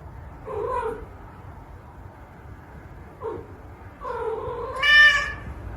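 A cat meowing: two short meows, then a longer drawn-out yowl that rises in pitch and is loudest near the end.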